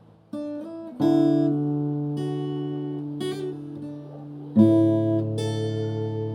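Background music: acoustic guitar strumming chords that ring on, with new chords struck about a second in and again past the middle.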